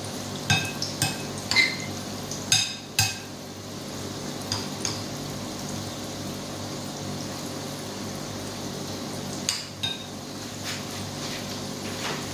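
Tuna balls deep-frying in hot oil in a stainless steel pan, sizzling steadily. Several sharp metallic clinks against the pan in the first three seconds and once more near the end.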